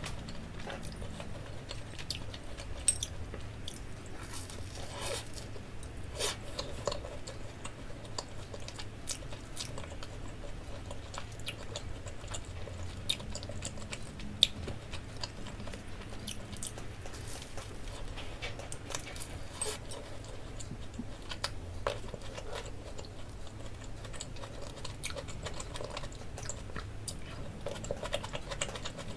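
A person chewing and biting food close to the microphone: irregular wet mouth clicks and soft crunches, with a few sharper bites standing out.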